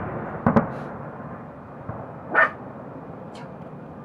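Fireworks salute: two sharp bangs close together about half a second in, then a steady rumbling hiss with a faint crack later on. A short call is heard about two and a half seconds in.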